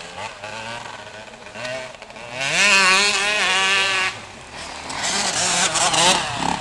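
Motocross motorcycle engines revving, the pitch rising and wavering. The loudest burst comes about two seconds in and lasts a couple of seconds, and another follows near the end.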